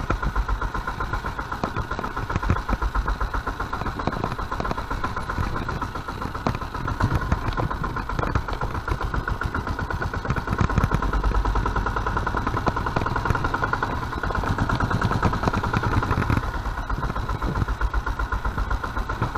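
Sommer Diesel motorcycle's air-cooled single-cylinder diesel engine running at low road speed, a steady rhythmic chugging.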